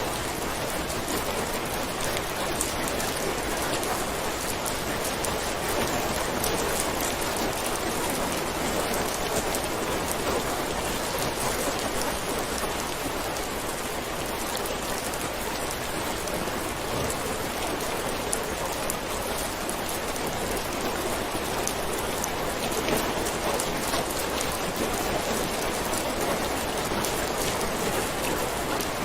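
Steady rain falling, an even hiss flecked with many small drop hits, with no thunder.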